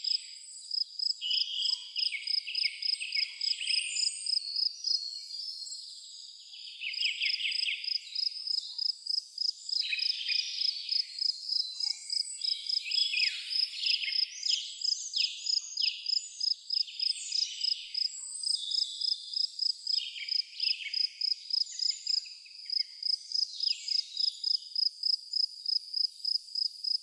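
Crickets chirping in a steady pulsing rhythm, about three chirps a second, with songbirds singing trills and falling notes over it.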